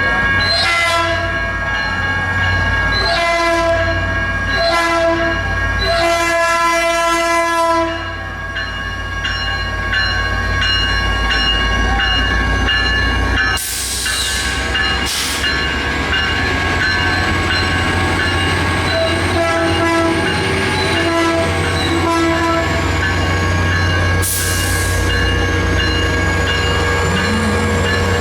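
Diesel locomotive sounding its horn four times, long, long, short, long, the grade-crossing signal, with its engine running low and steady underneath. A few fainter horn notes follow later.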